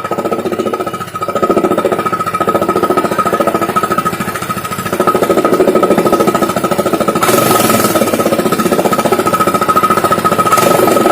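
Honda Activa scooter's single-cylinder engine running through a modified silencer, giving a rapid hammering exhaust beat meant to imitate a KTM or Bullet. It eases off briefly about a second in and again around four to five seconds in, then holds up. A steady high whine runs alongside.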